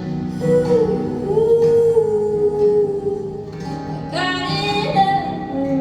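Live acoustic song: strummed acoustic guitar under a singing voice that holds one long note for about three seconds, then starts a new, higher phrase about four seconds in.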